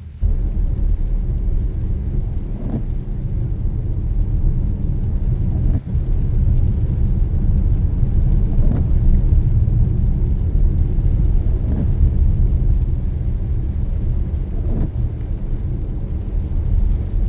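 Car driving on a rainy road: steady low road and engine rumble, with a faint tick about every three seconds.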